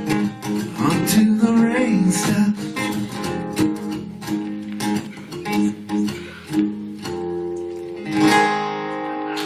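Acoustic guitar strumming the closing chords of a country song, with a last chord struck about eight seconds in and left ringing.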